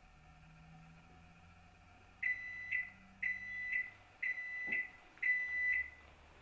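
Electronic kitchen timer beeping four times, about once a second, in a steady high tone. This signals that the one-minute cooling time is up.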